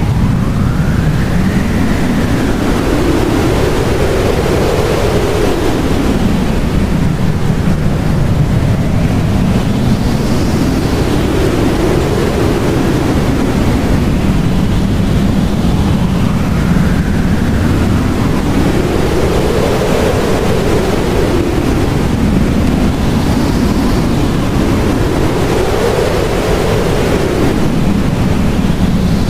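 Blizzard wind blowing hard: a steady rush with a hollow howl that swells up and falls away again every five to seven seconds.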